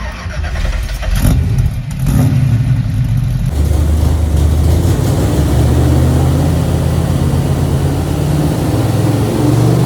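A 509-cubic-inch big-block Chevrolet V8 starts up. It fires unevenly for the first few seconds, then settles into steady running about three and a half seconds in.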